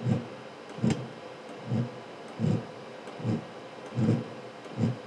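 Diesel air heater running on petrol, just lit: its fan runs with a steady hum while a short tick-thump comes regularly, about one every 0.8 seconds, seven in all, in the rhythm of its fuel dosing pump.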